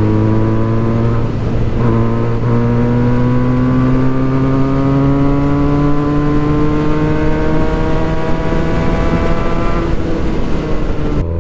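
Benelli 302S parallel-twin engine running through a Yoshimura exhaust under way. After a couple of brief breaks early on, as at a gear change, the exhaust note climbs slowly and steadily for several seconds as the bike accelerates, then drops away near the end as the throttle eases.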